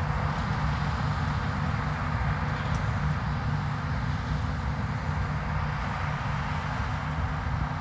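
Harvest machinery's diesel engine running steadily: a continuous low engine hum with a rushing noise over it.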